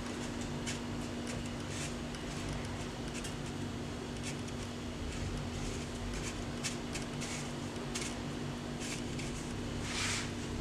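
Chicken pieces being pressed and turned in breadcrumbs: faint, scattered rustles and scrapes, with a stronger one near the end, over a steady low hum.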